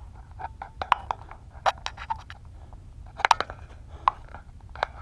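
Footsteps crunching on rough ground, with irregular sharp steps roughly once a second over a steady low rumble.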